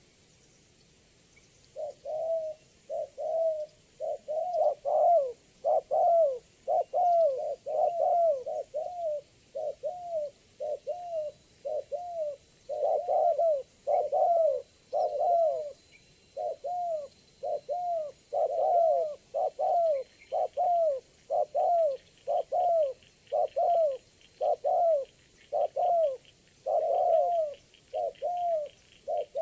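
Spotted doves cooing: a long run of short coos, about one and a half a second, that starts about two seconds in. This is tekukur lure song, used to call wild doves in for trapping. A faint, fast, high ticking joins about two-thirds of the way through.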